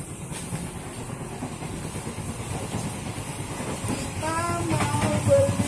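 Passenger train carriage running noise from inside the train: a steady rumble of wheels on the rails with a hiss, growing louder toward the end. A brief pitched squeal-like sound comes about four seconds in.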